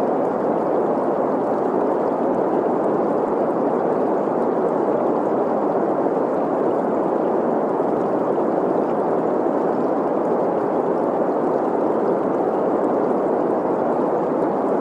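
Steady green noise, an even hiss centred in the middle range, blended with the sound of a running, gurgling stream.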